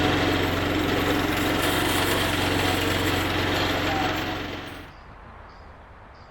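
Woodland Mills bandsaw mill running with its new blade turning, its gasoline engine holding a steady speed while the blade is run in. The sound falls away over about half a second, a little after four seconds in.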